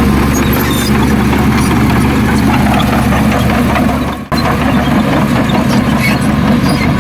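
Heavy diesel engine running steadily with a deep, even hum. The sound drops out for an instant a little after four seconds, then carries on unchanged.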